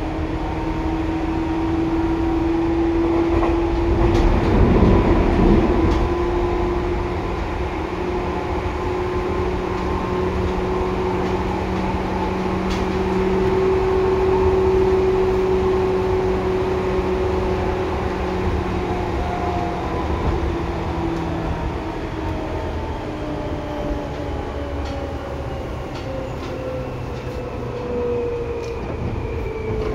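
Seibu 2000 series electric train running between stations, heard inside the car: a steady rumble with motor and gear whine, a louder stretch about four seconds in. Past the middle, a low hum stops and the whine tones slowly fall in pitch.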